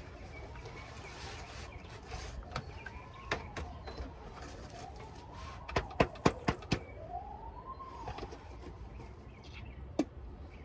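A siren wails slowly up and down, rising and falling about every two and a half seconds. Sharp knocks or taps cut across it: a few single ones, and a quick run of about six loud ones about halfway through.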